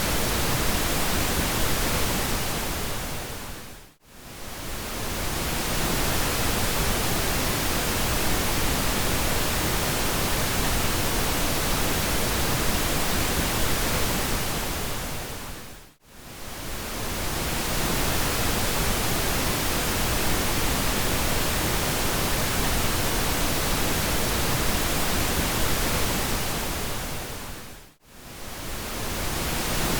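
Steady pink noise, a smooth even hiss across the whole range. Three times, about twelve seconds apart, it fades down to near silence and straight back up over a second or two.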